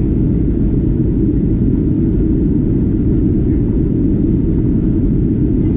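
Steady low rumble of an airliner heard from inside the passenger cabin.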